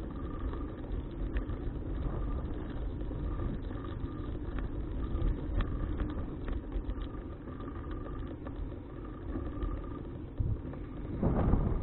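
Riding noise picked up by a bike-mounted action camera: steady wind and road rumble with small rattling clicks. A louder gust of wind rush comes in near the end.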